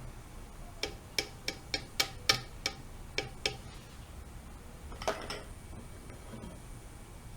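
A run of about ten sharp clicks, roughly three a second, then a single longer rattle about five seconds in.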